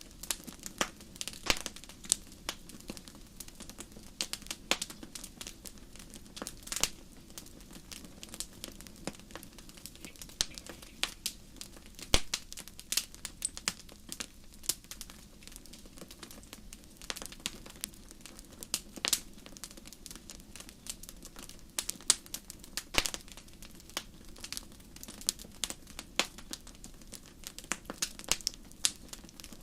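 Fire in a fireplace crackling, with irregular sharp pops and snaps, several a second, some louder than the rest, over a faint steady low hum.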